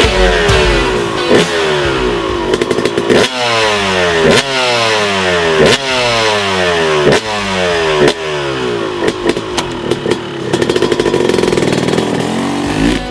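Yamaha YZ250 two-stroke dirt bike engine being ridden hard. It revs and then falls away in pitch over and over, about every second or so, with sharp cracks at the start of each sweep.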